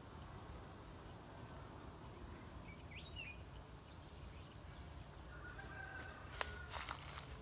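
Faint outdoor ambience with a steady low rumble and a short bird chirp about three seconds in, then a few sharp crackles near the end.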